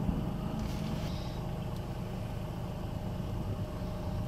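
Steady low rumble of an idling vehicle engine, with a faint steady hum above it.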